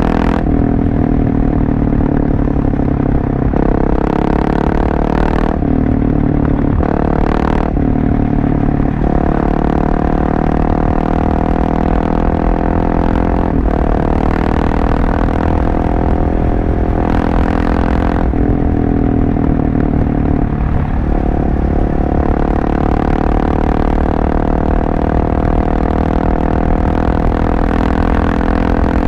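Husqvarna 701 Supermoto's single-cylinder engine running through a LeoVince aftermarket exhaust while riding. The engine note holds steady between several sudden shifts in pitch, about every few seconds in the first half and twice more later, as the throttle and gears change.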